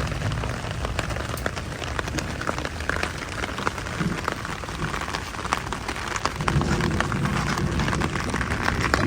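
Heavy rain falling, with many close drops striking sharply against a steady hiss. A deeper low rumble builds in about two-thirds of the way in.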